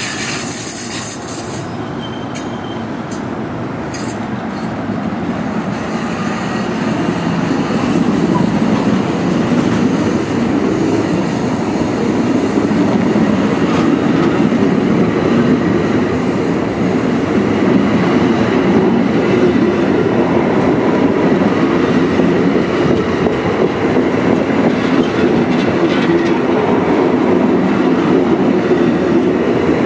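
A train rolling past on the rails, a steady rumble of wheels that grows louder over the first several seconds and then holds, with a brief high wheel squeal and a few clicks at the start.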